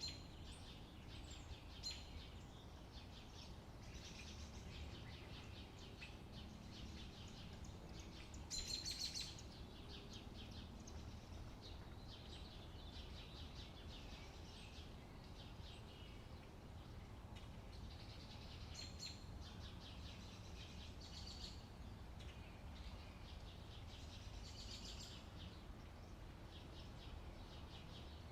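Faint birdsong: several birds chirping in short repeated high phrases, with one louder burst about nine seconds in, over a steady low outdoor rumble.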